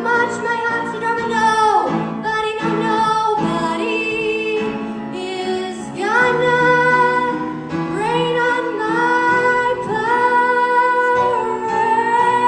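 A female solo voice singing long held notes, with slides between them, over instrumental accompaniment.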